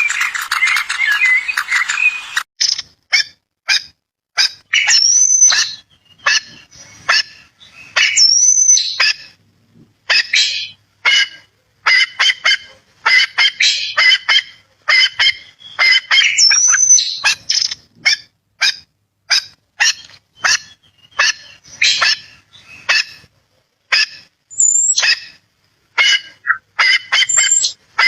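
Birds calling: a rapid string of short, sharp chirps and squawks, a few drawn out into a high rising whistle, with brief silences between the bursts.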